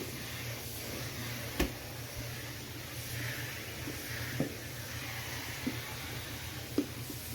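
Central vacuum cleaner running: a steady rush of air through the hose with a low hum under it, and four short sharp knocks as the tool strikes the recliner.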